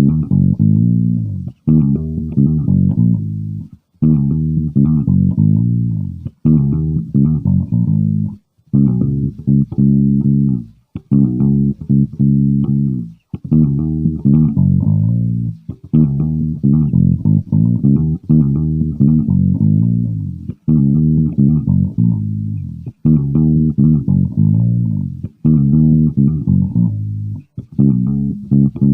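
Aria Pro PJ electric bass played alone through a Digitech BP80 amp modeler: a riff of plucked notes, repeated in phrases about two seconds long with brief gaps between them.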